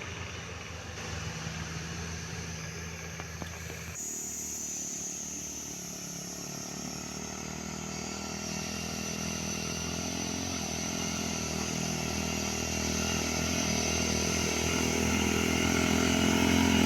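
Vehicle engine running steadily, growing louder over the second half.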